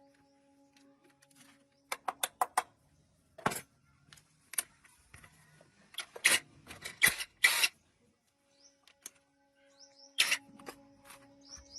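Sharp clicks and knocks of hand tools and metal parts being handled during tractor engine repair: four quick ones about two seconds in, a single knock a little later, a dense cluster around the middle, and one more near the end, over a faint steady hum.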